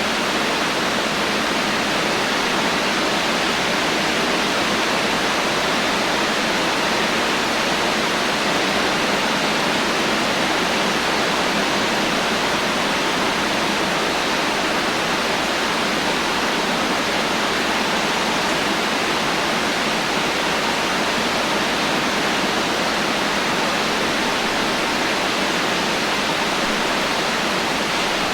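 Steady heavy rain: a dense, even hiss of rainfall with no thunder and no separate drops standing out.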